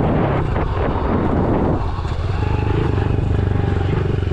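A 110cc dirt bike's single-cylinder four-stroke engine running while riding, with a noisy rush over it for the first two seconds before it settles to a steadier, slightly quieter note.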